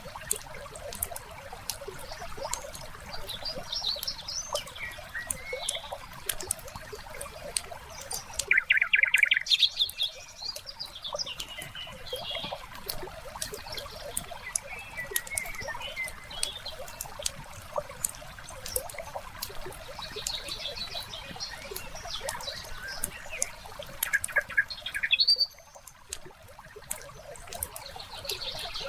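Wood fire crackling with sharp pops throughout, over trickling water and songbirds chirping. The loudest bird call is a rapid trill about nine seconds in, with another burst of calls near twenty-five seconds.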